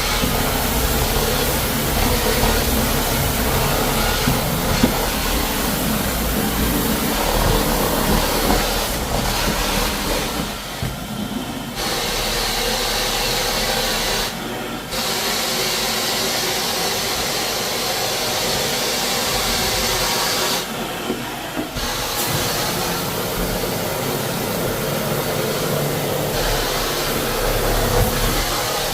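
Floor-cleaning equipment running steadily with a loud hiss of spraying. The hiss cuts out briefly three times while the motor hum carries on underneath.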